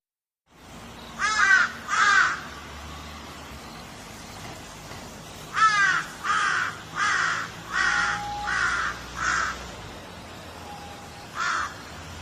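Crow cawing: two harsh caws, then after a pause a run of six evenly spaced caws, then a single caw near the end, over a steady background hiss.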